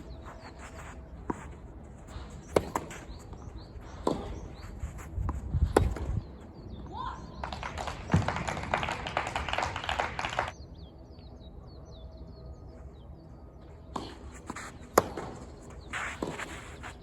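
Tennis ball struck back and forth with racquets in a rally, sharp pops about every second and a half, followed by a few seconds of crowd noise and then a few more ball hits and bounces.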